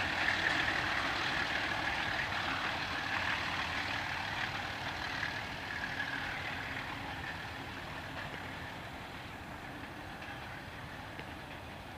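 Locomotive-hauled passenger train running along the track and moving away, its engine and rolling coaches fading steadily.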